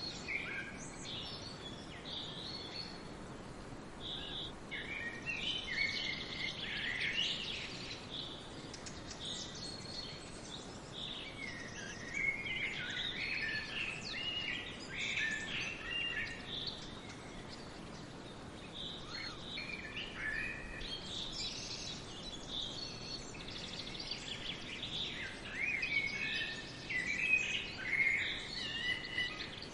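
Several songbirds singing and calling in a forest, a mix of quick chirps and short trills that come in busy bursts and thin out between them, over a steady faint hiss.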